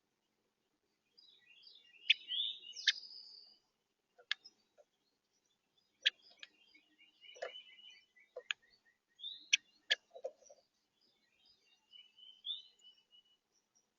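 Several songbirds call and sing in short phrases, including a run of quick notes stepping down in pitch near the middle. Sharp clicks and taps are scattered among the calls.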